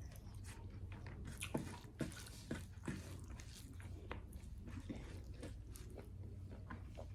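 A person chewing food close to the microphone: faint mouth sounds with a run of short, sharp clicks through the middle, over a low steady room hum.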